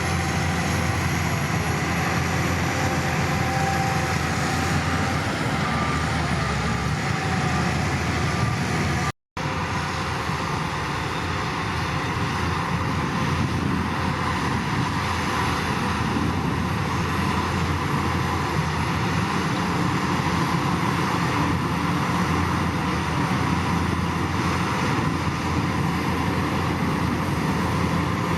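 Heavy construction-machine diesel engine running steadily, broken by a brief cut to silence about nine seconds in.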